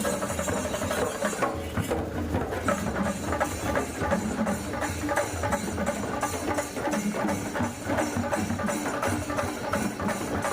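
Drums and percussion playing a fast, steady rhythm to accompany a Kommu Koya tribal dance.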